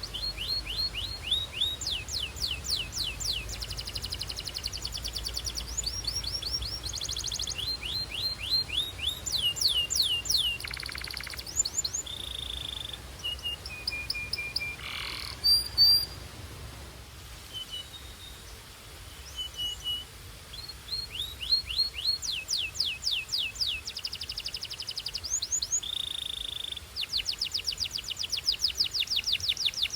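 Belgian canary singing: fast trills of repeated falling notes, a few short steady whistled notes, and a loud rising note near the middle, followed by a stretch of short pauses before the rapid trills resume.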